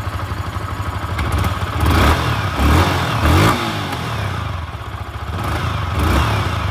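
Yamaha R15 V4's 155 cc single-cylinder engine idling through its exhaust, with several quick throttle blips in which the pitch rises and falls: about two seconds in, twice more around the three-second mark, and once near the end.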